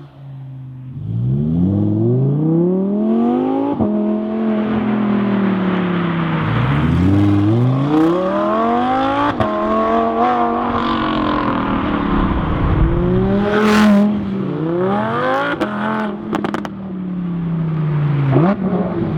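Audi R8's 5.2-litre V10 through a Fabspeed valved stainless exhaust, accelerating hard several times. The pitch climbs steeply and drops sharply at each upshift, then falls away as the throttle is eased. A few sharp cracks come through near the middle.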